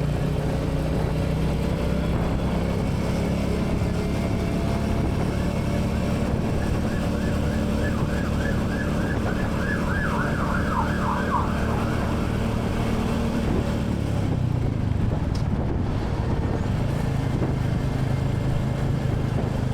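Royal Enfield Classic 350's single-cylinder engine running steadily while riding, its note dropping about two-thirds of the way through. Midway a rapid repeating warbling chirp, like a siren or electronic horn, sounds for a few seconds.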